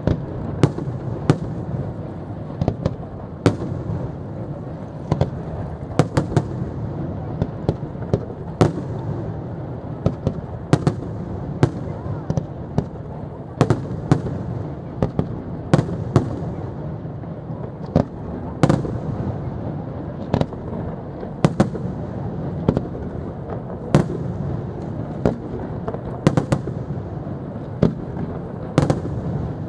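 Aerial firework shells bursting in a professional display: an irregular string of sharp bangs, roughly one a second, over a steady low rumble.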